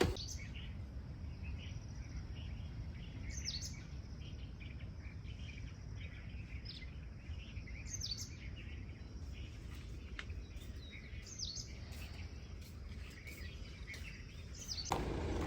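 Birds calling over a steady low background noise: a few short, high, downward-sliding calls about every four seconds, with fainter chirps in between.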